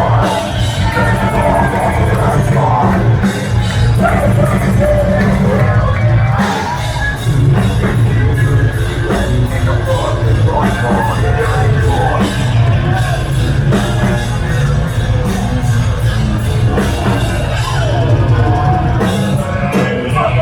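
Heavy metal band playing live and loud: distorted guitars and bass over fast drumming, with shouted vocals, in a large room.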